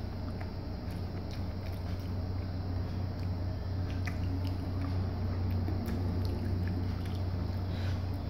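A person chewing a crispy fried gorengan fritter, with small irregular crunching clicks, over a steady low hum.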